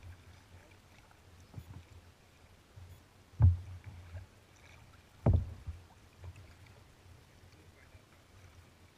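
Kayak on the water: low water sloshing and paddling noise against the hull, with two loud low thumps about two seconds apart midway through.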